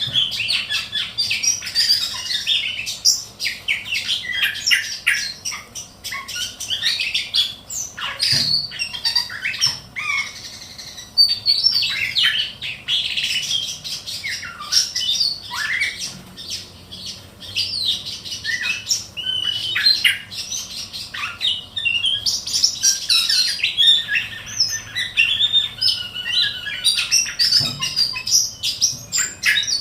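Ciung batu kecil (Sunda whistling thrush) singing a continuous, busy string of short chirps, whistled slides and harsh squawky notes, with hardly a pause.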